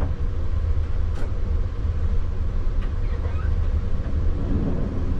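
Tram running on its rails, heard from the driver's cab: a steady low rumble, with a couple of faint clicks.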